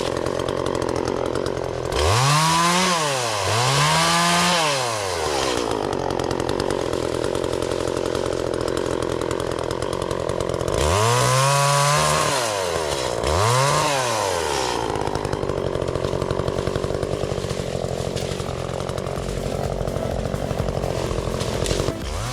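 Echo CS-400 two-stroke chainsaw idling steadily, revved up and back down in short bursts: twice about two seconds in, twice more about eleven seconds in, and once more at the end.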